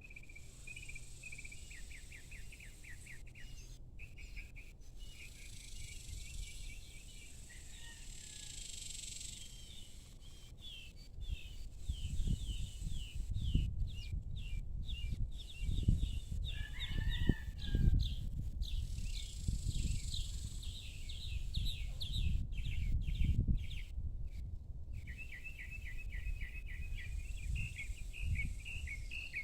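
Evening outdoor ambience of small birds chirping in long rapid trills. Through the middle there is a gusty low rumble on the microphone.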